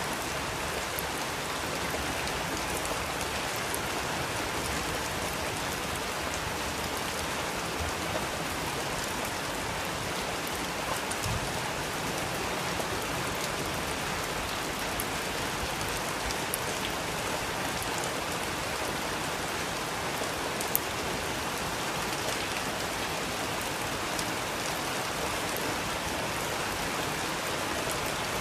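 Steady rain falling, an even hiss with scattered sharper drop ticks and one slightly louder tick about twenty seconds in.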